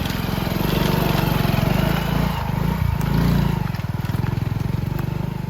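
Small Hero motorcycle's single-cylinder engine running under way, its pitch dropping briefly as the throttle eases about halfway through, then rising again.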